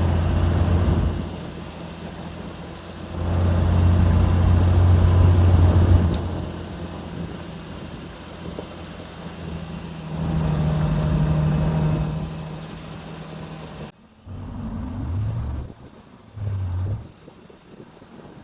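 Vehicle engine running, swelling in three long surges and easing between them, then cutting off suddenly near the end to quieter sounds with two short low bursts.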